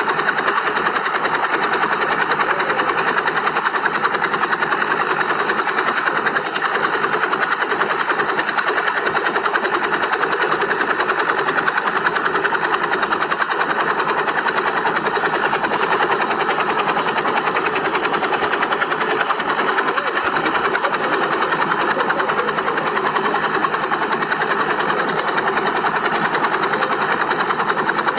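A small motor running steadily with a fast, even rattling buzz.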